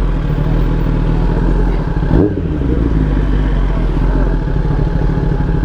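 Motorcycle engine idling steadily, with a brief thump about two seconds in.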